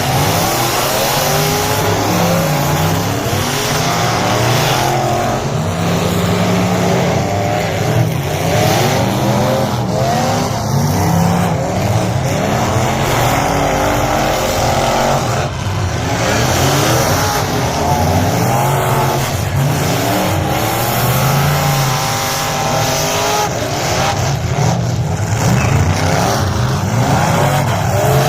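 Several figure-8 race cars' engines revving up and down together as the cars race, many rising and falling engine notes overlapping.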